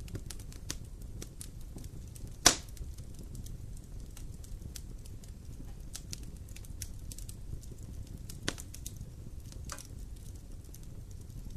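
Campfire burning: wood crackling with scattered small snaps and one loud pop about two and a half seconds in, over a low steady rumble of the flames.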